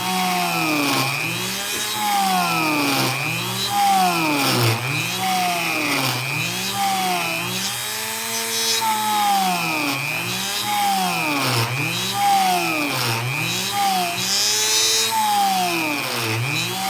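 Dremel rotary tool drilling a hole through a carbon fiber wheelie bar. The motor's whine rises and falls in pitch over and over, a little faster than once a second, as the bit bites into the carbon and frees up again.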